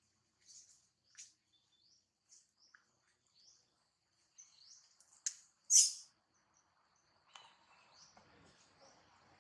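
Scattered short, high-pitched bird chirps, two louder ones close together just past the middle. A soft rustling hiss sets in near the end.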